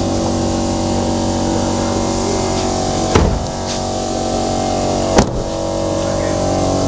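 A steady hum inside a just-parked car, broken by two sharp knocks about two seconds apart.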